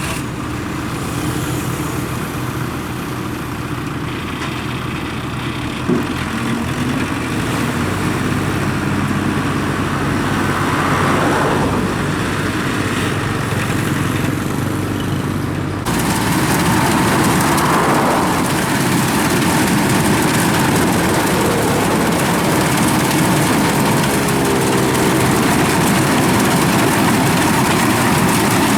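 Diesel engine of rice-harvesting farm machinery running steadily. About halfway through, the sound suddenly gets louder and hissier.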